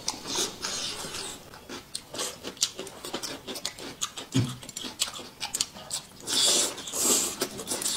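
Close-up chewing of boneless chicken feet: quick, wet, crunchy mouth clicks. There is a short hum about four seconds in and a louder sucking, slurping sound about six seconds in.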